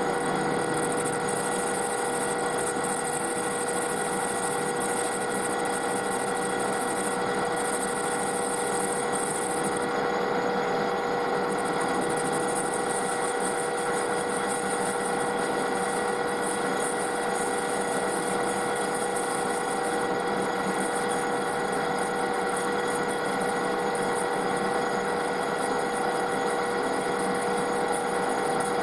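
Metal lathe running steadily with a constant whine, with a high hiss over it that briefly drops out twice.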